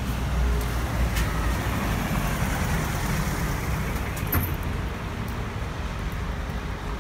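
Steady rain mixed with road traffic, tyres hissing on a wet street, with a low rumble underneath and a brief click about four seconds in.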